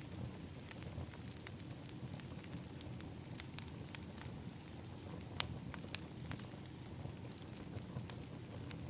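Outdoor fire pit crackling: irregular sharp pops over a low, steady rumble of the fire, with the two loudest pops about five and a half and six seconds in.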